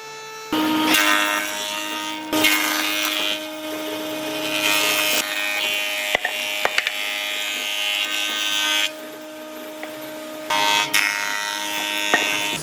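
Handheld power tool running and working wood, a loud abrasive noise over a steady motor hum. The cutting eases off for a moment about nine seconds in and resumes, with a few sharp clicks around the middle.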